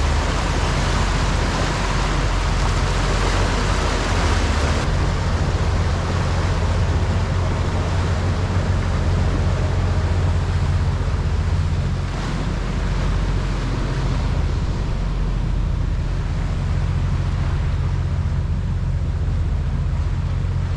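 Wind and water rushing steadily past a sailing yacht under way, over a steady low drone.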